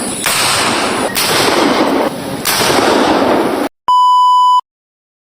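Homemade boga cannon firing in quick succession: three loud blasts, each with a long rumbling tail, that cut off abruptly. A short electronic beep tone follows, then digital silence.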